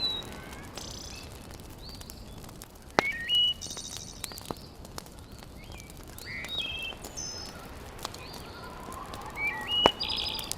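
Small birds chirping and whistling repeatedly, with short rising and stepped notes. Over a steady hiss of background noise there are two sharp pops, about three seconds and about ten seconds in, typical of a wood fire crackling in a fireplace.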